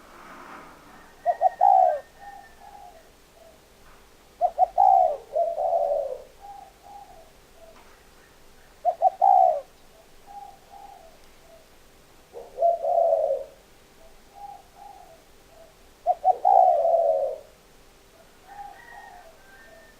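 Spotted dove cooing, repeating its phrase about every four seconds: a few strong low coos followed by softer trailing notes.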